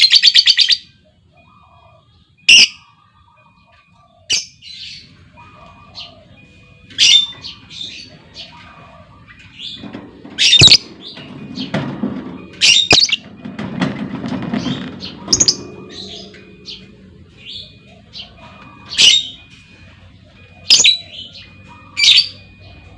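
Lovebirds calling. A rapid chattering trill cuts off just after the start, followed by sharp, shrill single calls and softer chirps, spaced one to a few seconds apart.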